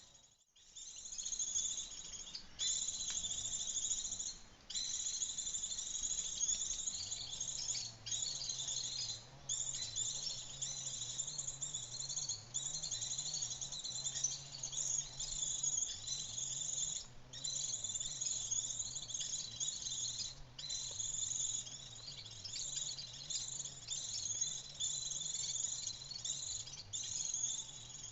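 Dense high-pitched insect buzzing with small birds chirping through it, broken by brief gaps every few seconds. A faint low hum joins about a quarter of the way in.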